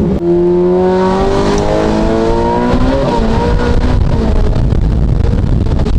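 Ferrari F8 Tributo's twin-turbo V8 through a catless Ryft full exhaust under hard acceleration: the engine note climbs steadily in pitch for about three seconds, breaks at an upshift, then carries on pulling under a rougher roar.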